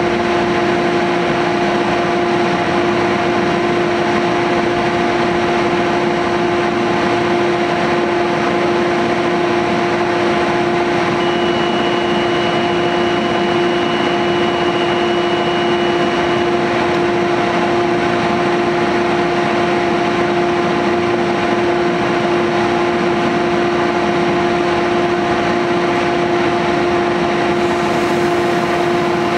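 Metrolink bilevel commuter train standing at the platform, its onboard machinery running with a steady, loud hum that holds the same pitch throughout.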